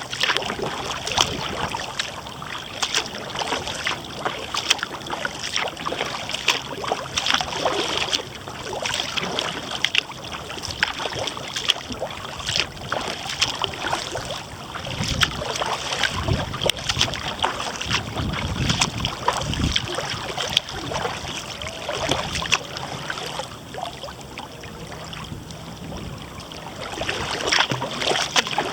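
Kayak paddle strokes splashing and water lapping against the hull. Gusts of wind rumble on the microphone about halfway through.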